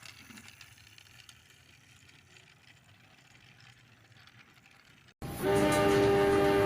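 Train horn cutting in suddenly about five seconds in and holding a steady, loud chord of several tones over a low rumble; before it, only faint low background noise.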